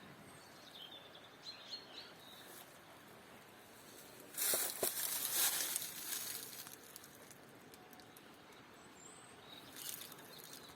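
Outdoor ambience with faint bird chirps in the first couple of seconds. About four seconds in, a loud rustling noise lasts roughly two seconds, and a shorter, quieter one comes near the end.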